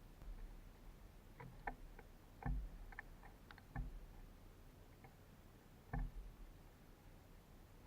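Birds pecking and landing at a wire suet cage feeder: irregular light taps and clicks, clustered in the first four seconds, with a few heavier knocks among them.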